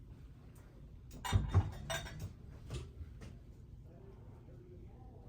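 Small metal surgical instruments clinking and knocking against each other or a tray: a quick cluster of clinks a little over a second in, loudest twice in close succession, then a couple of fainter clinks.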